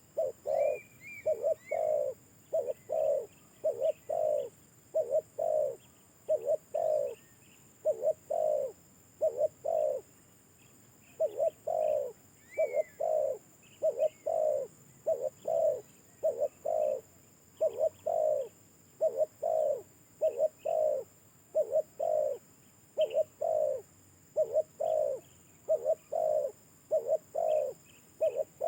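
Spotted dove (tekukur) cooing over and over in phrases of three or four low notes, with short pauses between phrases. Small birds chirp faintly in the background.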